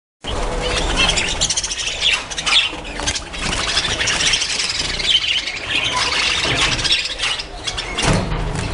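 Budgerigars chattering and squawking, cutting in suddenly after silence, over a low rumble.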